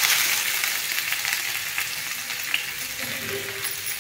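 Chopped onion sizzling in hot ghee with cumin seeds, loudest at first as it goes into the pan and dying down over the next few seconds.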